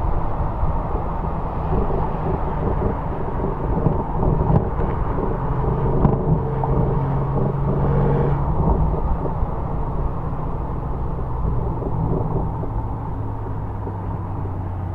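Exhaust of a 2007 Porsche 911 Carrera (997) 3.6-litre flat-six, heard close to the tailpipe, running at low revs with wind and road rumble. The engine note drops and settles lower over the last few seconds.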